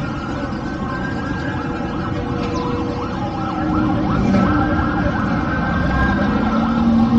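Several car engines running together, their pitches rising and falling as they rev and ease off, over a steady low rumble.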